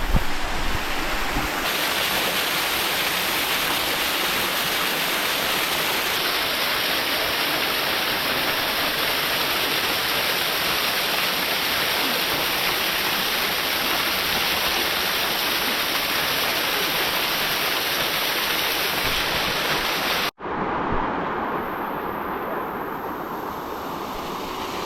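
Waterfall water rushing, a loud, steady, even rush. About twenty seconds in it cuts off abruptly and is followed by a quieter, duller rushing noise.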